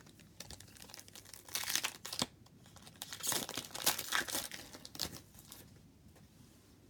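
A plastic trading card pack wrapper being torn open and crinkled by hand, in a few irregular crackly bursts that die away after about five seconds.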